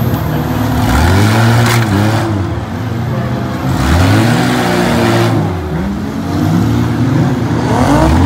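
Six-cylinder demolition derby cars' engines revving hard and dropping back again and again as they back up and ram each other, with a sharp bang of a hit a little under two seconds in.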